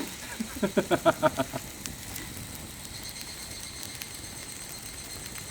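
Meat sizzling on a thick iron griddle plate over a campfire, a steady hiss. A short burst of laughter, about five quick pulses, comes about half a second in.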